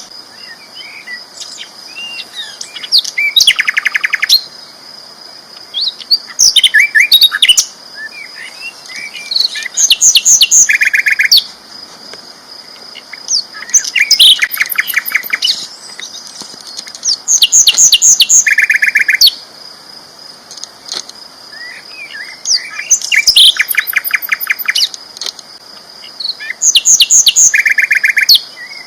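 Sikatan londo flycatcher singing loud, rapid trilled song phrases about every three to four seconds, around seven in all, with a steady high tone underneath.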